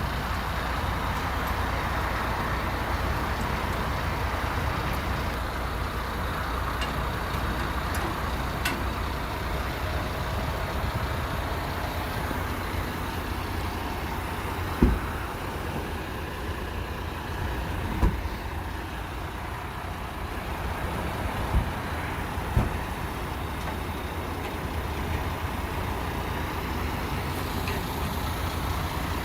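Tractor unit's diesel engine running steadily, with four short low thumps about halfway through and a little later.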